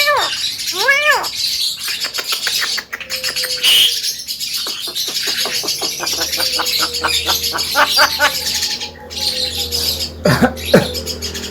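Javan myna (jalak kebo) singing a varied song: arching whistled calls at the start, a fast rattling run of clicks in the middle, and two sharp down-slurred calls near the end.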